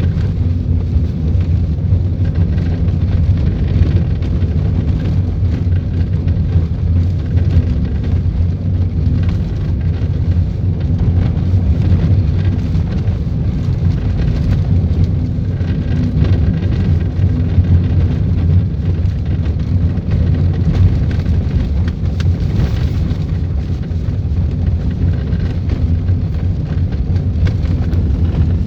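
Volkswagen Polo in motion, a steady low rumble of road and engine noise heard from inside the cabin.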